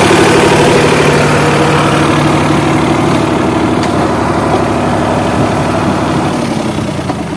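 Sonalika DI 47 tractor's diesel engine running steadily, growing quieter toward the end.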